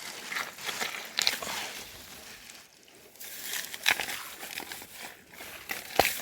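Irregular crunching and rustling of soil and dry leaves being dug through in a search for earthworms, with a sharp click near the end.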